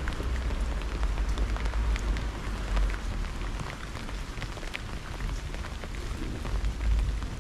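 Steady rain of a thunderstorm, with many separate drops ticking sharply close to the microphone over a continuous low rumble.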